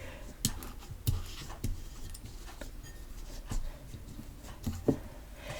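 Homemade PVA-glue slime being kneaded and squeezed by hand, giving irregular small clicks and pops about once or twice a second.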